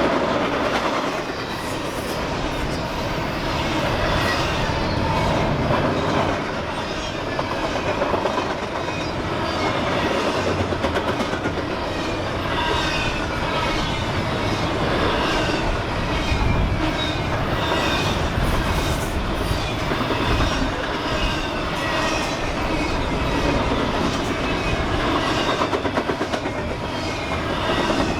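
CSX intermodal train's container cars rolling past at close range: a steady rumble with rhythmic clickety-clack of the wheels over the rail joints, and short high squeals from the wheels.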